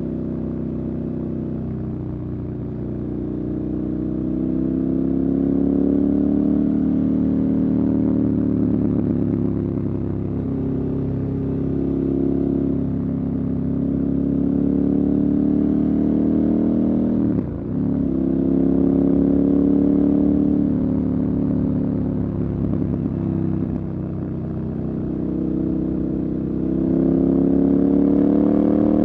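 Motorcycle engine running under way, its note rising and falling as it speeds up and eases off. There is a brief sharp drop in the sound about two-thirds of the way through.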